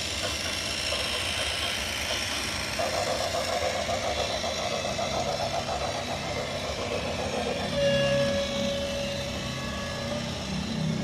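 A heavy vehicle's engine running steadily. A steady held tone joins it about eight seconds in and breaks off briefly before the end.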